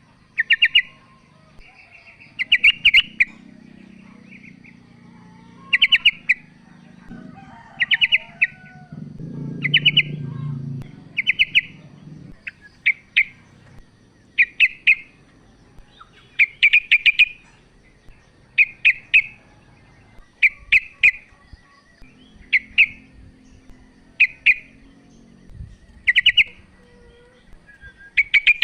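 Female yellow-vented bulbul (trucukan) calling: short bursts of a few rapid chattering notes, repeated every second or two.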